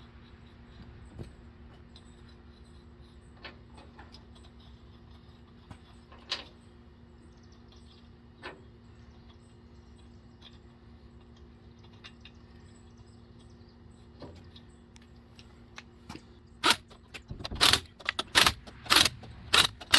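Scattered light metal clicks over a low steady hum, then, near the end, a rapid string of loud short bursts, about two a second, from an impact wrench blipped to run lug nuts on a truck wheel.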